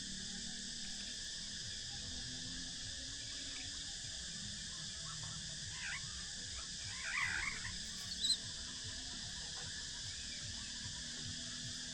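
Steady high-pitched insect chorus, with a short burst of bird chirps about seven seconds in and a sharp click just after.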